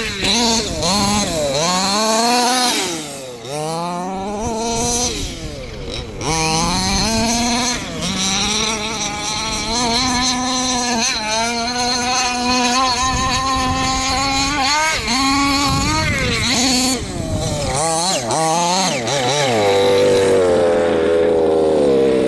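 The HPI Baja 5B's ported 30.5cc two-stroke long-rod engine with a side-pipe exhaust, howling at full throttle. Its pitch rises and falls again and again as the throttle is opened and backed off, and it settles into a steadier tone near the end.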